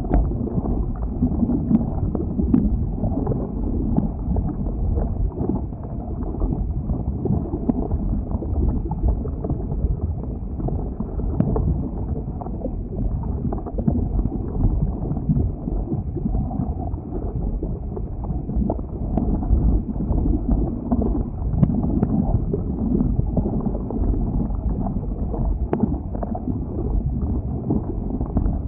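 Flowing lava: a steady low rumble, with a few faint sharp crackles scattered through it.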